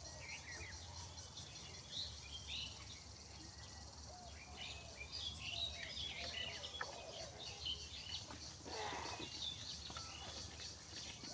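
Several small birds chirping and calling, many short chirps overlapping throughout, over a steady low background hum.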